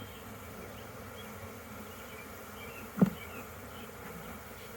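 Honeybees buzzing steadily around an opened hive, agitated by the disturbance. A single sharp knock about three seconds in.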